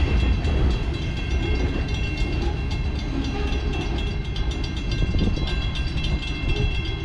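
Freight train of boxcars rolling away along the track: a steady rumble with faint, evenly repeated clicks and a high ringing tone from the wheels and rails.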